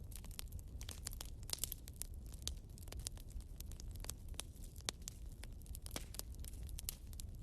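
Firewood burning in a fireplace, crackling with many irregular sharp pops over a low rumble.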